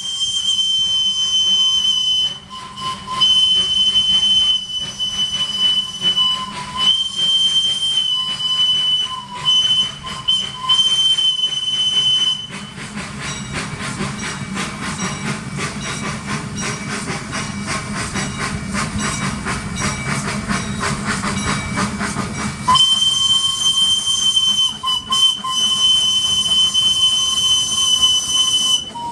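Crown Metal Products 4-4-0 miniature steam locomotive departing. Its steam whistle sounds in several long blasts broken by short gaps for about twelve seconds. Then comes about ten seconds of fast, even exhaust chuffing with steam hiss, and the whistle sounds again near the end.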